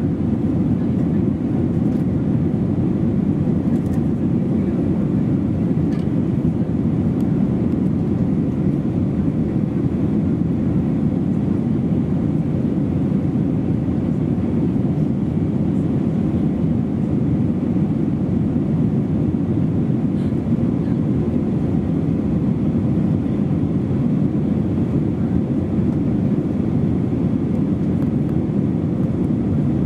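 Steady engine and airflow noise of an Airbus A320-232 heard from inside the passenger cabin, an even low rumble that holds constant throughout.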